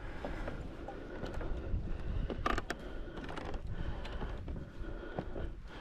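Footsteps with knocks and creaks on wooden steps, a cluster of sharper clacks about two and a half seconds in, over a steady low rumble of wind on the microphone.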